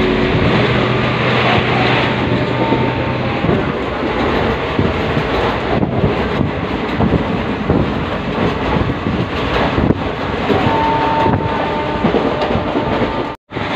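Running noise of a moving passenger train heard from inside the coach beside an open door and window: a steady rumble and rattle of wheels on the track. The sound cuts out for an instant near the end.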